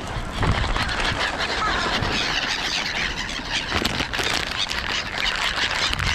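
Gulls and other birds at a feeding spot calling in shrill squeals, many overlapping calls at once, over a low wind rumble.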